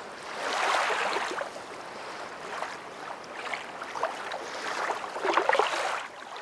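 Rushing, bubbling water noise from an aquarium tank. It swells about a second in and again near the end, with small clicks through it.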